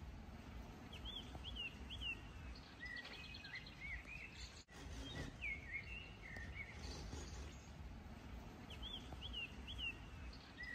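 Songbirds singing faintly outdoors: short hooked chirps in groups of two or three and a quick trill, over a low steady rumble of background noise.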